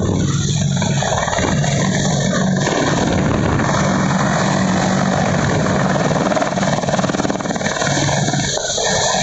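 AH-64 Apache helicopter's twin turboshaft engines and rotor running, a loud steady noise with a low hum that fades and returns.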